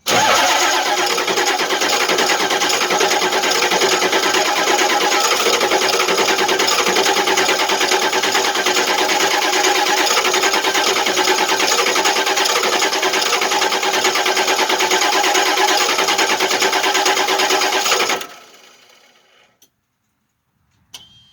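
Starter cranking the 7.3 litre V8 diesel of a 1989 Ford F-450 in a cold start below freezing, steady and loud for about 18 seconds without the engine catching, then cutting off. The truck has sat for a few days, and the owner suspects weak glow plugs.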